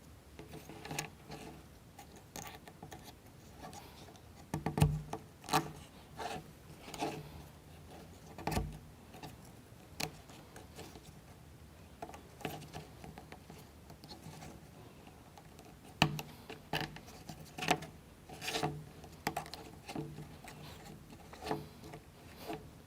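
Small plywood model-kit parts being handled and fitted together by hand: scattered light clicks and knocks with some rubbing of wood on wood, a few sharper knocks among them.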